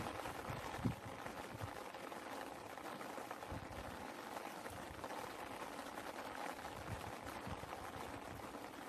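Steady rain falling, an even hiss, with scattered heavier drops landing as dull low knocks, the loudest a little under a second in.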